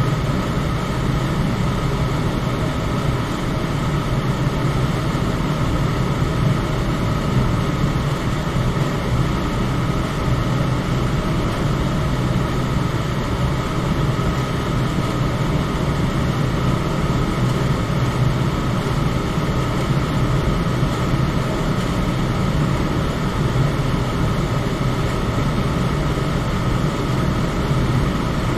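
Electric fan running steadily: a constant low whooshing hum of air and motor, with a faint steady whine above it.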